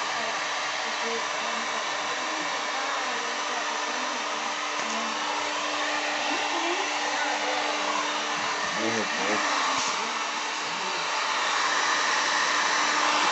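Heat gun running steadily, a constant rush of air with a steady low hum, melting the piece being worked.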